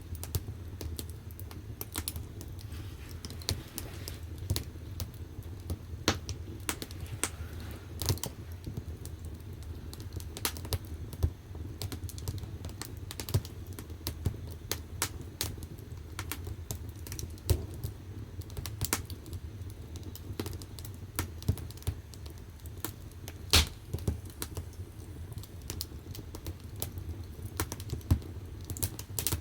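Firewood burning in the firebox of a wood-fired bath heater: irregular crackling and sharp pops over a low, steady rumble of the fire, with one louder pop about three-quarters of the way through.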